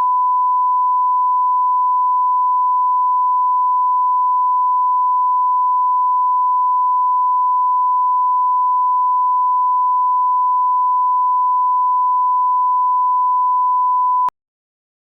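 A 1 kHz line-up test tone: a single pure pitch held steady at constant level, cutting off abruptly near the end. It is the reference tone used to set audio levels at the head of a broadcast spot.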